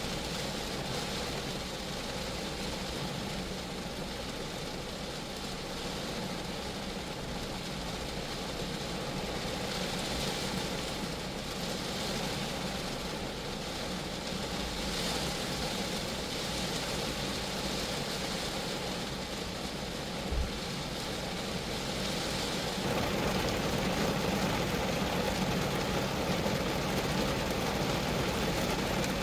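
Rain falling steadily on a Geo Metro's body, getting a little louder in the last few seconds. One brief low thump about two thirds of the way through.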